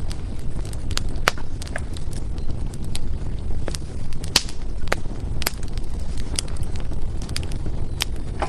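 Firewood burning in a fireplace: a steady low rumble of flame with irregular sharp crackles and pops, a few louder snaps about halfway through and near the end.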